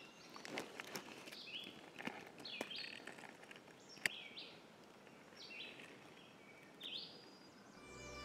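A bird calling repeatedly in short high chirps, roughly one every second, over faint rustling of dry pine needles with a few sharp clicks as hands search the forest floor. Music comes in near the end.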